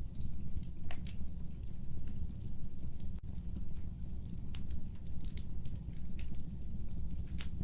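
Fire crackling: irregular sharp pops and snaps, several a second, over a low steady rumble of the flames.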